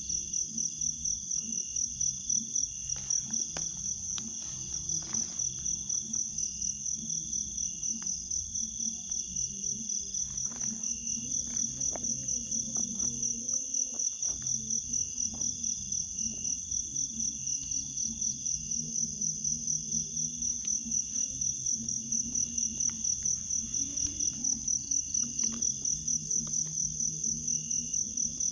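Crickets chirping in a steady, high, evenly pulsing chorus, with a low hum underneath and scattered faint clicks and knocks.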